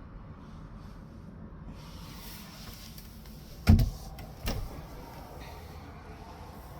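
Two knocks, a sharp loud one and a softer one under a second later, over a faint steady background noise.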